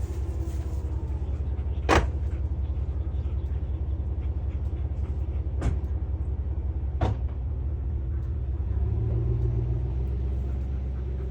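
A vehicle engine running with a steady low rumble. Three sharp knocks come through it, the loudest about two seconds in.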